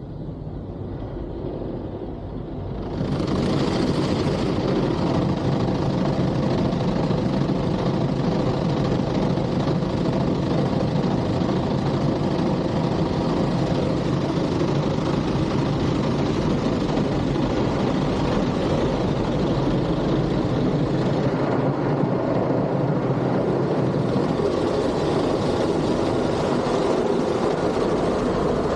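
Automatic car wash machinery running: a steady rushing noise that starts abruptly about three seconds in, with a low motor hum underneath.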